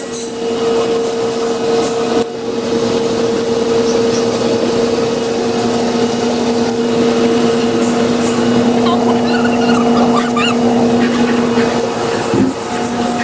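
Steady mechanical hum from a running motor, with a constant low drone over a noisy rush, cutting off shortly before the end. A few faint high squeaks come through about two-thirds of the way in.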